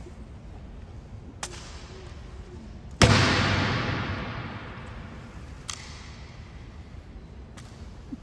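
An honor guard's rifle drill: one loud, sharp strike on the hard floor about three seconds in, echoing away over more than a second in a large stone hall. A few lighter sharp clicks come before and after it.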